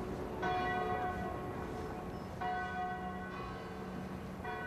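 Church bell tolling: three strokes about two seconds apart, each ringing on and fading before the next.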